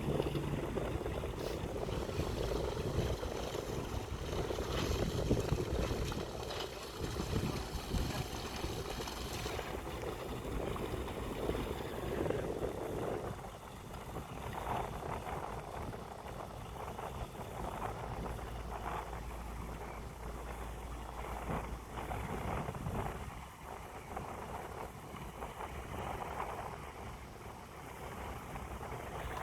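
A small harbour tug's engine running as it moves off, mixed with wind noise. It grows quieter about halfway through.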